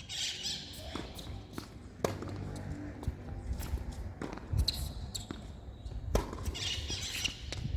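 Tennis ball being hit and bouncing on the court: several sharp knocks, roughly a second or so apart.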